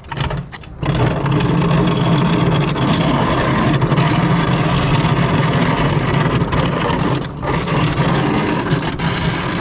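A motor running steadily and loudly with a low hum, starting about a second in and dipping briefly near the end.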